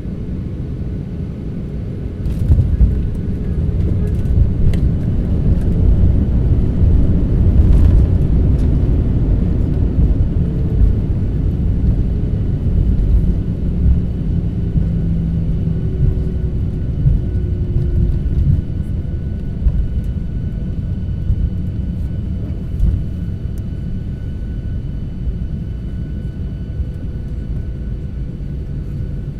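Airliner cabin noise: a low rumble of jet engines and airframe that swells about two and a half seconds in, with a few sharp knocks, then slowly eases off in the second half, near the end of the flight.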